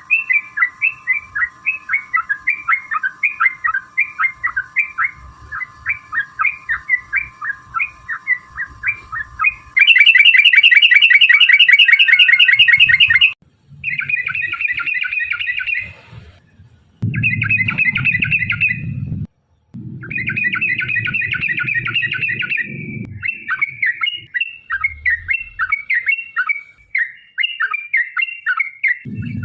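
Yellow-vented bulbul (trucukan) song. It starts with repeated bubbly chirps, about three a second, over a faint steady tone. Then comes a loud, very fast rolled trill (ropel), followed by short bursts of rapid chatter that cut off abruptly and scattered chirps near the end.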